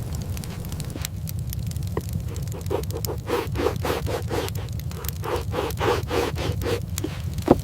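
Footsteps crunching in snow, about three a second, over a steady low rumble of wind.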